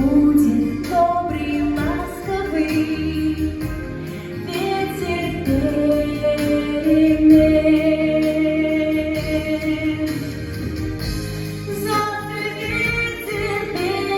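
Music: a woman singing long held notes over instrumental backing.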